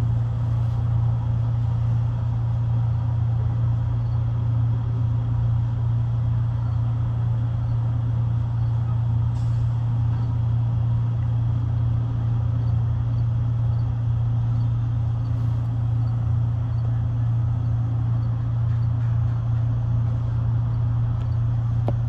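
Steady low hum inside a passenger railcar, with no rail-joint clicks and no change in level.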